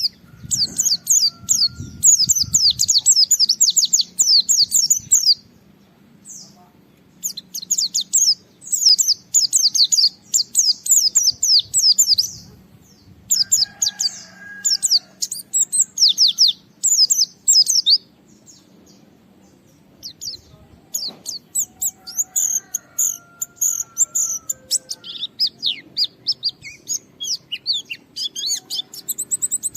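A white-eye (pleci) singing a fast, high-pitched chattering song in long rapid runs of chirps, broken by a few short pauses.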